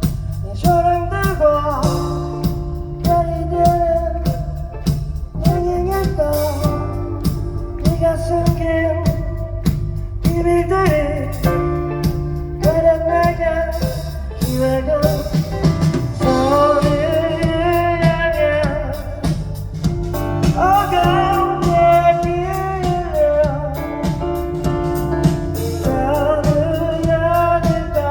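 A band playing live with a lead vocal: a sung melody over drums, bass and guitar.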